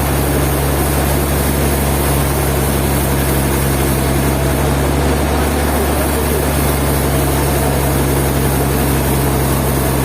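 Sawmill machinery's engine running steadily: an even, unbroken low drone that does not rise or fall.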